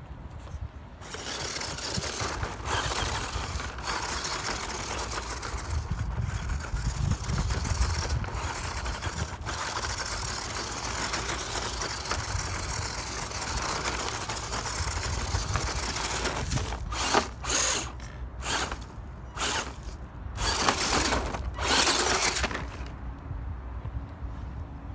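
Scale off-road RC car driving over rough ground: its electric motor and gears whir and grind, with the throttle blipped in several short bursts near the end.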